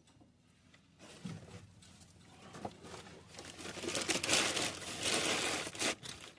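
Packing material being handled and crumpled: a crinkling rustle that starts about a second in and is loudest in the last two seconds.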